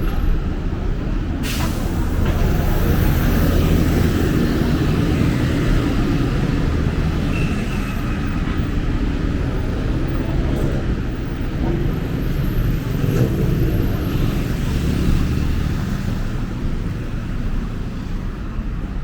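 Busy city road traffic: vehicle engines running in a steady low rumble, with one short, sharp hiss about one and a half seconds in.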